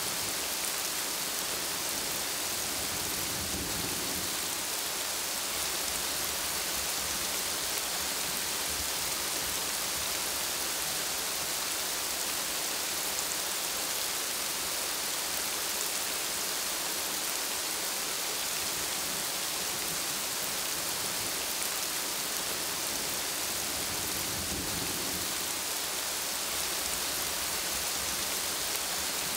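Steady rain pattering on large broad plant leaves, an even, unbroken hiss. A soft low rumble swells briefly about three seconds in and again about five seconds before the end.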